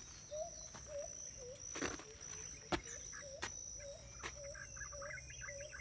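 Outdoor ambience: a bird repeats a short low hooked call about two to three times a second over a steady high-pitched insect drone, with a few scattered clicks and knocks.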